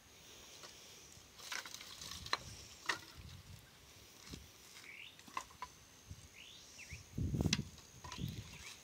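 Faint scattered knocks and clicks of dry branches being handled on a bonfire pile, with a few short bird chirps and a louder rustling knock about seven and a half seconds in.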